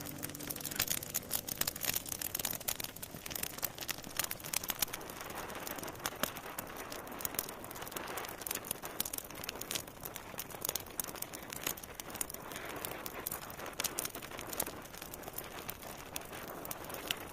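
Wood fire crackling in a fireplace, with many irregular sharp pops over a soft hiss. The last notes of music fade out just after the start.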